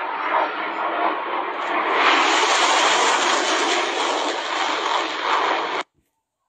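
Fighter jet making a low pass: loud jet noise that grows louder about two seconds in, then cuts off suddenly near the end.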